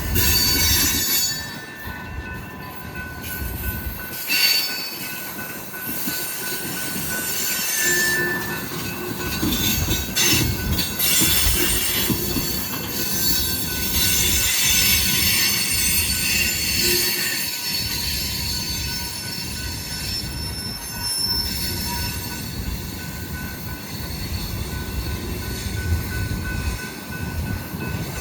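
Cars of a mixed freight train rolling past with a steady rumble, the wheels squealing high-pitched against the rails.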